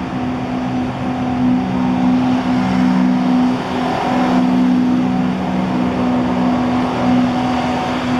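Motor traffic: a steady engine drone with two low held tones over a hiss of road noise, briefly wavering about four seconds in.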